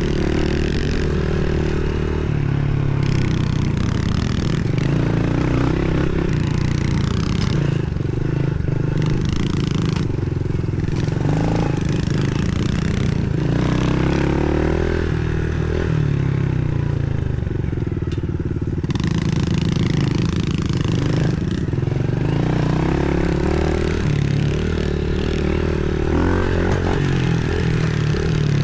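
Pit bike engines running and revving as they are ridden, the pitch stepping and gliding up and down with throttle and gear changes.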